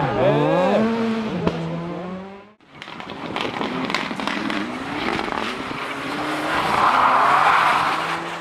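Rally car engine revving hard, its pitch climbing and dropping with gear changes. After a sudden cut about two and a half seconds in, there is rushing tyre and gravel noise with crackles, which swells louder near the end.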